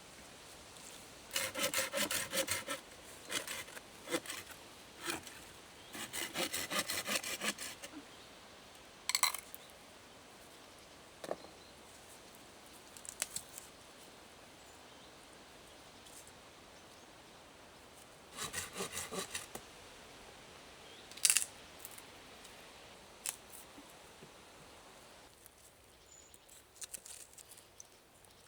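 Wood being sawn by hand in three short bursts of quick back-and-forth strokes, with a few single sharp knocks between them.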